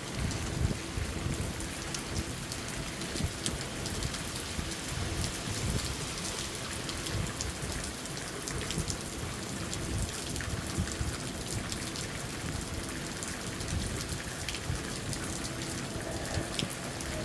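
Steady rain falling, with many individual drops ticking on a surface over an even hiss and a low rumble.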